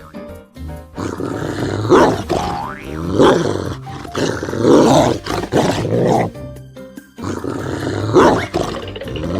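Loud animal calls, repeated every second or so over background music, with a brief pause about two-thirds of the way through.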